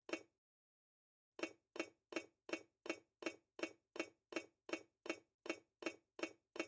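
A single sharp clinking tap, then after a pause of about a second a steady run of sharp clinking taps, about two and a half a second, each dying away quickly.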